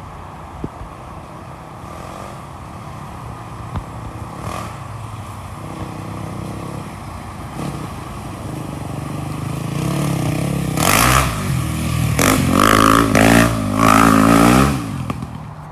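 An off-road vehicle engine comes closer, getting louder, then revs hard in the last few seconds with its pitch climbing and falling several times, and falls away quickly near the end.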